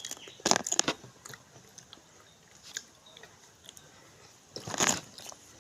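Close-up eating sounds: food being bitten and crunched, with a cluster of crunches about half a second in and a louder crunch near the end.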